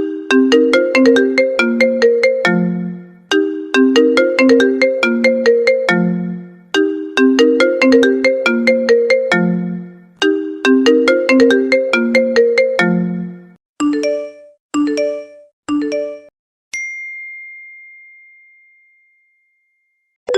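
An iPhone ringtone plays a short melody that loops four times, about every three and a half seconds. Then come three short chimes and a single high ding that rings on and fades away.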